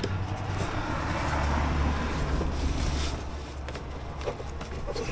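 Low rumble of a vehicle going by outside, swelling about a second in and fading after about three seconds, with a few faint clicks near the end.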